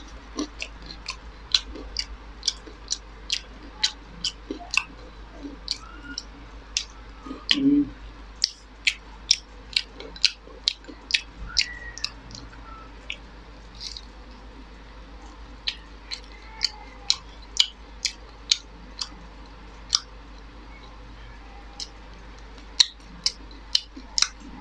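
Close-up mouth sounds of eating: chewing with wet lip smacks, a rapid irregular string of sharp clicks, over a steady low hum.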